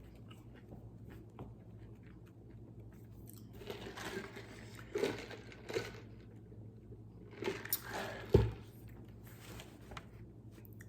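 Close-up eating sounds: crunchy food being bitten and chewed in two bouts, with a low thump about eight seconds in.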